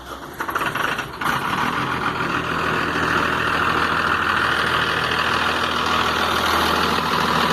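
Mercedes-Benz 1620 truck's diesel engine idling with the valve cover off. It grows louder over the first second or so, then runs steady with a hiss over the engine note.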